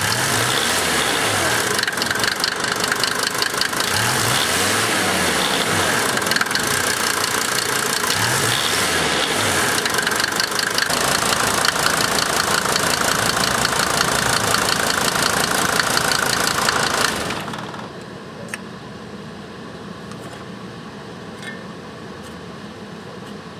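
1990 Mercedes-Benz 300D 2.5 Turbo's five-cylinder diesel idling roughly with steady diesel clatter. About seventeen seconds in, the engine sound cuts off to a much quieter hiss with a few faint ticks.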